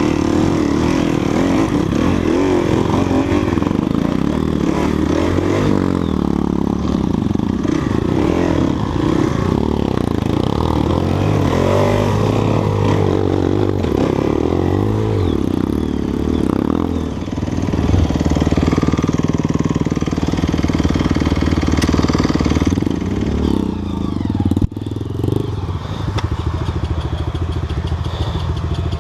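Off-road enduro motorcycle engine running and revving on the trail, its pitch rising and falling again and again as the throttle is worked.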